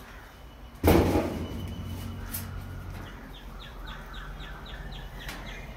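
A sudden loud bump about a second in, then a bird calling a rapid series of short high chirps, about four a second, from about halfway through.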